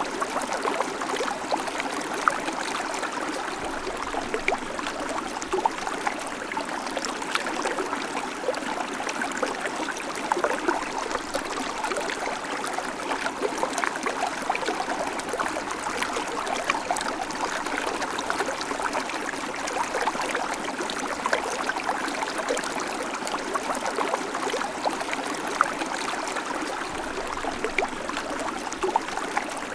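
Babbling creek: shallow water running steadily over stones, with many small splashes and gurgles.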